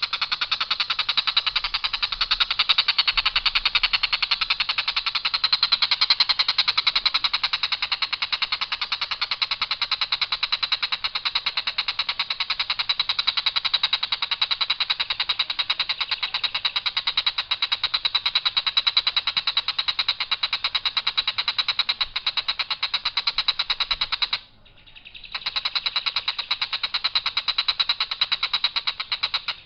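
Tengkek buto giving a long, harsh, rattling call: a very fast run of identical notes on one line without variation. It breaks off briefly about three-quarters of the way through, then starts again.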